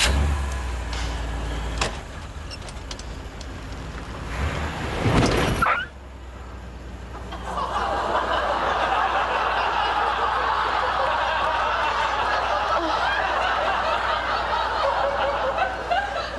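Taxi engine running, then revving up loudly and cutting off suddenly about five and a half seconds in. A studio audience then laughs at length over the low hum of the idling engine.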